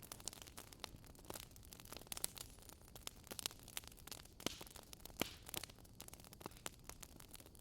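Fire crackling in a fireplace: irregular sharp pops and snaps over a soft hiss, with a couple of louder pops about halfway through.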